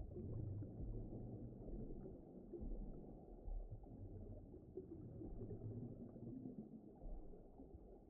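Low, muffled underwater ambience: a dull rumbling wash with nothing above the low range, gently swelling and ebbing.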